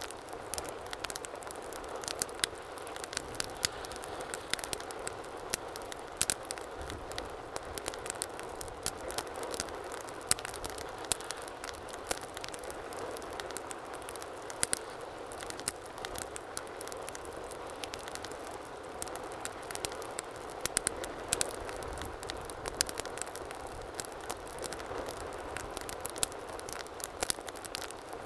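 Wood fire burning in a fireplace: a steady soft hiss of flames with frequent sharp, irregular crackles and pops.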